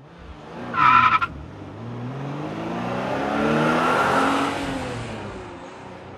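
A car driving past, its engine note and tyre noise swelling to a peak about four seconds in and then fading as the pitch drops. A short high-pitched squeal sounds about a second in.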